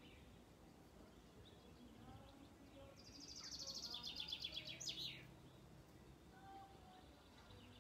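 Faint birdsong: a rapid high trill about three seconds in, lasting about two seconds and ending in a quick falling note, with fainter chirps around it.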